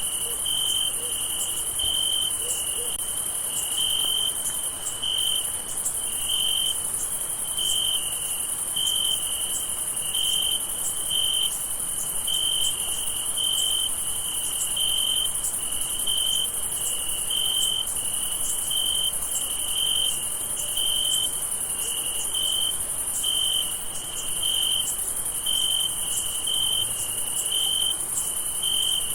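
Night-time chorus of crickets: a steady high-pitched trill, with a lower chirp pulsing at an even rhythm over it.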